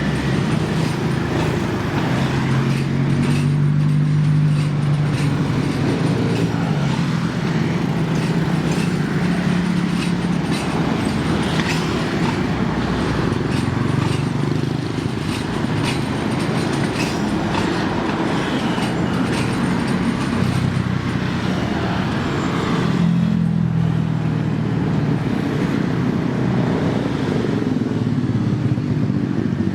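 A diesel train running past at the station: a steady engine drone with scattered clicks of wheels over the rail joints in the middle stretch.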